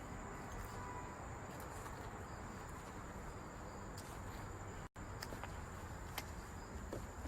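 Faint, steady high trill of crickets over low background hiss, with a few soft clicks and a sudden brief cut in the sound just before five seconds in.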